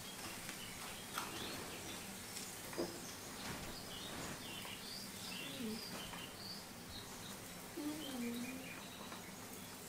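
Faint scattered bird chirps over a steady low hiss.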